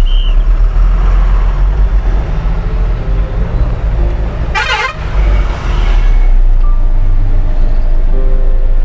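Road traffic with a heavy low rumble of vehicles and short honks of vehicle horns, broken by one brief sharp crackle about halfway through.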